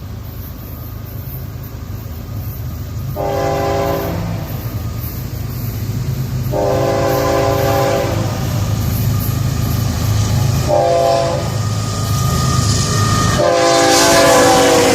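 Florida East Coast Railway freight train led by GE ES44C4 diesel locomotives sounding its horn for a grade crossing in the standard pattern: long, long, short, long, over a steady engine rumble that grows louder as it approaches. The last blast drops in pitch as the lead locomotive passes.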